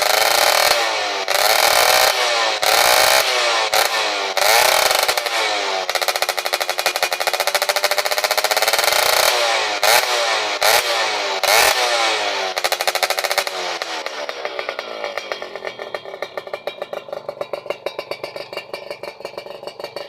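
Yamaha F1ZR two-stroke motorcycle with a new aftermarket exhaust, revved over and over in quick throttle blips that rise and fall in pitch. About 14 seconds in it drops back to idle, a fast, even popping beat that grows fainter.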